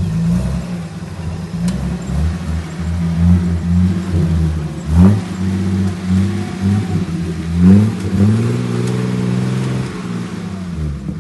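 Off-road 4x4's engine revving hard under load, with sharp rises in pitch about five and about eight seconds in, held high for a couple of seconds, then easing off near the end.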